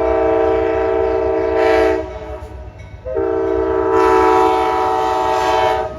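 Amtrak passenger locomotive air horn sounding two long blasts, each about two seconds, with a short gap between them. Under the horn is the low rumble of the approaching train.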